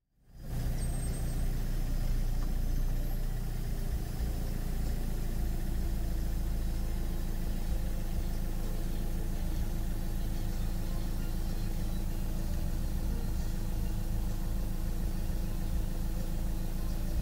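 Vehicle engine idling steadily: an even, low hum with no revving.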